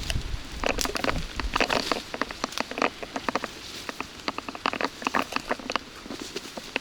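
Raindrops pattering close to the microphone: an irregular scatter of sharp ticks.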